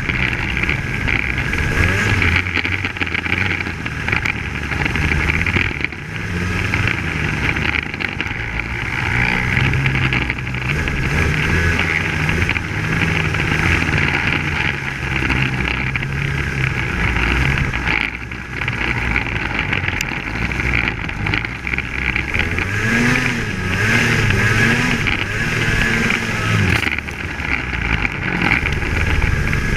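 Polaris Axys 800 snowmobile's two-stroke twin running under way, its engine note rising and falling with the throttle.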